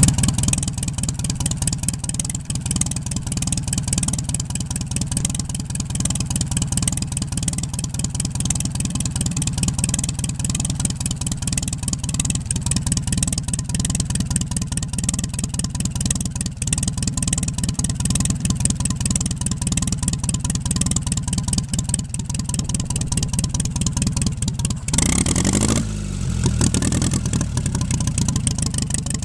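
Bristol 20 crawler tractor's petrol engine running steadily on fresh petrol after ten years laid up. Near the end it revs briefly, rising and falling once.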